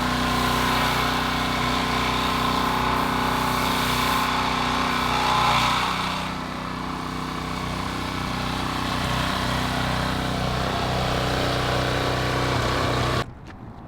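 An engine running steadily, swelling briefly about five and a half seconds in; the sound cuts off abruptly near the end.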